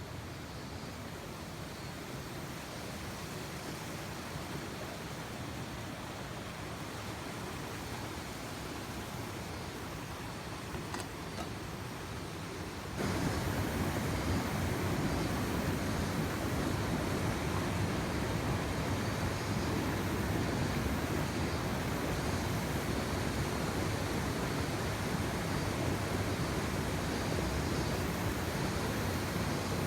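Mountain stream rushing over rocks in a small rapid, a steady rush of water. It turns suddenly louder and fuller a little before halfway through.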